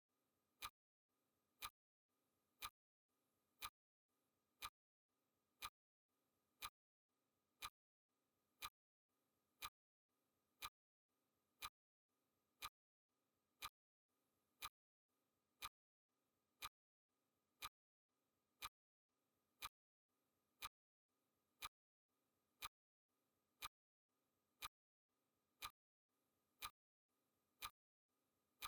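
Faint clock-ticking sound effect, one sharp tick a second.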